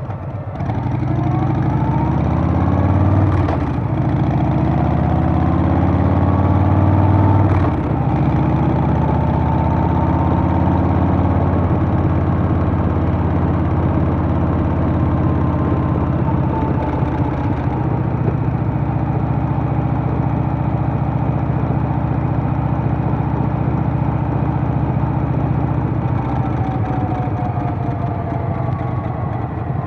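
Harley-Davidson Softail's Milwaukee-Eight V-twin engine on the move, rising in pitch as it accelerates through the gears with shifts about three and a half and seven and a half seconds in. It then cruises steadily, and its pitch eases down near the end.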